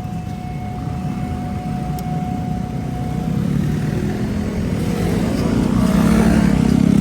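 Motorcycle engines running and drawing closer, growing steadily louder and loudest near the end. A thin steady tone sounds through the first half.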